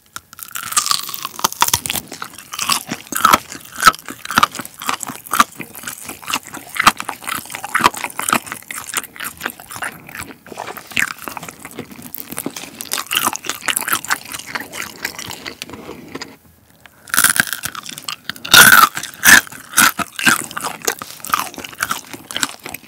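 Close-up eating sounds of chili pepper chicken being bitten and chewed: dense crackly crunching of the coating with wet mouth sounds. After a short pause about 16 seconds in, a fresh bite brings a louder run of crunches.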